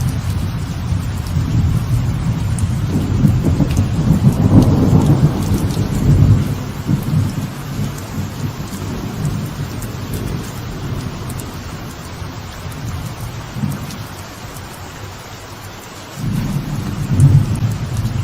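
Light rain falling steadily on a veranda, with rolling thunder: a long low rumble builds to its loudest about five seconds in and dies away, and a second rumble starts near the end.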